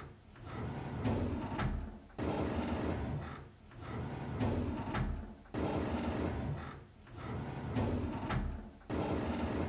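A drawer sliding open again and again, each slide a rumbling scrape of a second or two with a short pause between, about six times.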